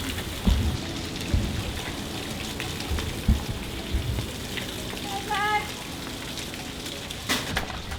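Steady rain falling, with a few low thumps and, about five seconds in, a short wavering high tone.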